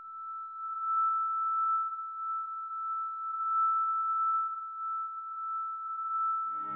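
A steady high-pitched electronic tone, one pure pitch held with a slight waver in level, used as film sound design. Near the end the tone fades as soft music comes in underneath.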